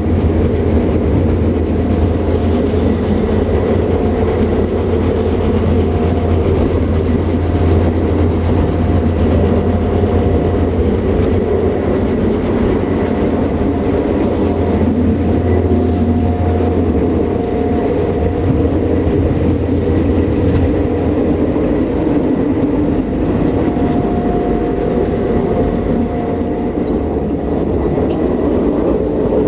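Astra Trans Carpatic IC2 diesel multiple unit under way, heard inside its passenger saloon: a steady running rumble with a low drone that eases about two-thirds of the way through, and a faint whine that comes and goes.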